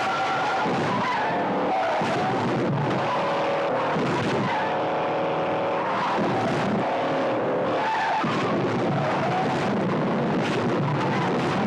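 Movie car-chase audio: car engines revving hard and tires squealing and skidding.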